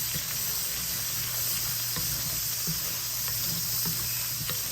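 Potato pieces frying in oil in a pan: a steady sizzle with a few faint scattered pops.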